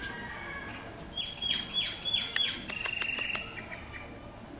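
A bird calling: a quick run of about five high, down-slurred chirps, then a short buzzy trill.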